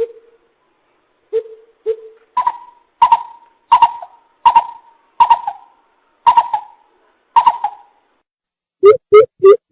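Greater coucal hooting: a few low hoots, then a slower series of higher hoots about one every 0.7 s, then a quick run of low hoots near the end.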